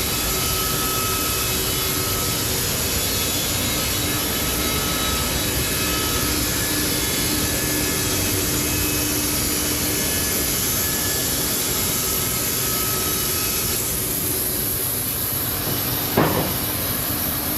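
Sawmill running and sawing through a log: a steady, loud mechanical noise with a thin whine that fades near the end, then a single sharp knock.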